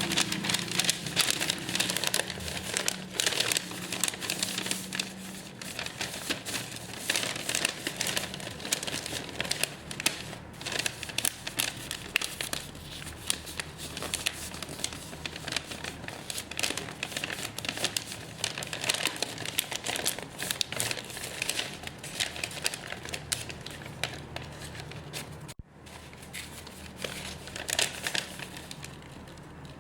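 Plastic packaging crinkling and rustling as orders are handled and packed by hand, in dense, irregular crackles. The sound breaks off for a moment near the end.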